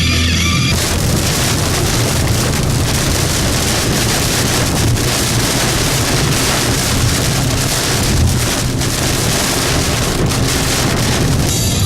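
Storm rain and gusting wind making a loud, steady hiss with a low rumble underneath.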